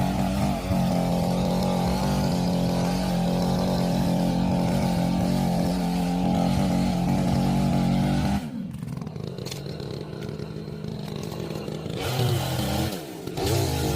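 Chainsaw engine running at high revs, then falling to a quieter idle about eight seconds in and revving back up near the end.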